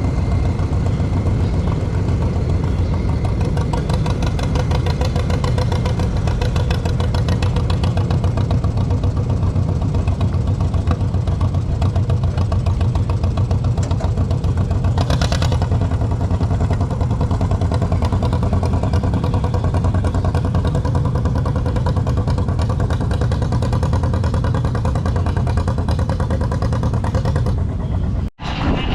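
Engine running steadily with a fast, even firing beat. A short hiss comes about halfway through, and the sound cuts out abruptly near the end.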